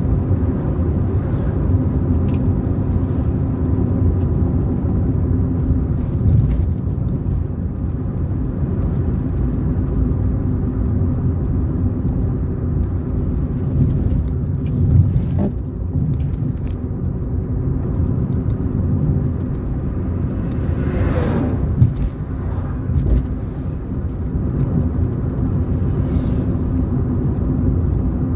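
Car driving on a road: steady low rumble of engine and tyres, with occasional short knocks and a brief falling whine about two-thirds of the way through.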